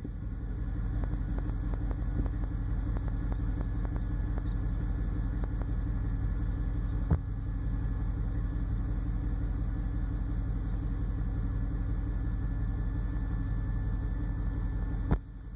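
Vehicle engine idling steadily, heard as a low rumble inside the truck cab. A single sharp click comes about halfway through and another near the end.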